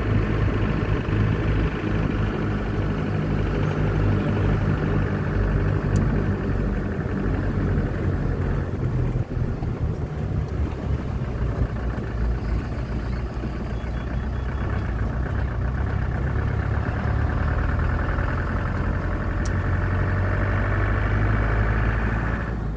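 Steady motor vehicle engine noise with a continuous low hum, running without a break and stopping abruptly at the end.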